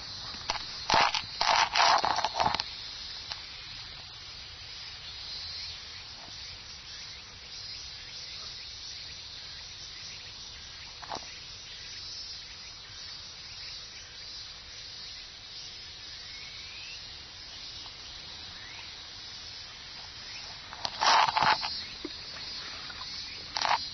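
Steady high-pitched cicada chorus. A few short, loud bursts come about a second in and again near the end.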